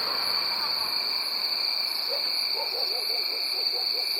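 A quick run of short, low hooting calls from an animal, about five a second, begins about two seconds in. Under it runs a steady high-pitched buzz of insects.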